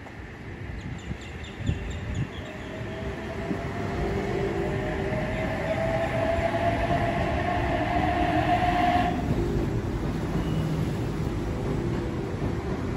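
Oscar H set electric multiple-unit train running into the platform, its rumble growing louder as it comes alongside. A whine rises slowly over several seconds and cuts off suddenly about nine seconds in.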